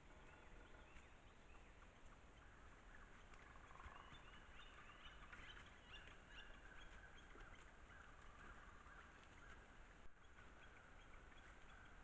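Faint outdoor ambience through a trail camera's microphone, with distant bird calls: a run of short chirps from about four to seven seconds in, over a faint steady high tone that sets in about three seconds in.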